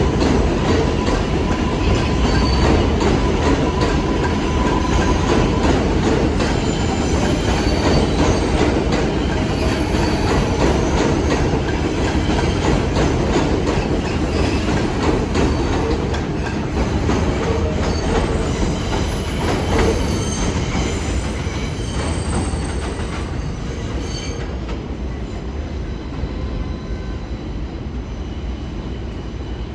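New York City Subway train of R142-family cars running on the rails, a steady rumble with wheels squealing at times and a steady high tone in the first few seconds. The sound gradually eases off over the last five seconds or so.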